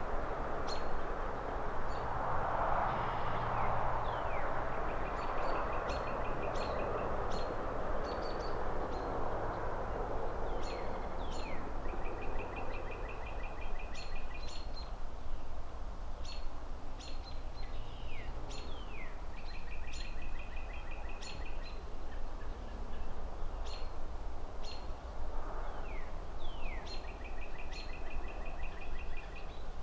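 Small birds chirping, with a fast repeated trill recurring several times, over a steady low rumble of distant city traffic. A soft whooshing swell rises and fades a few seconds in and again around ten seconds.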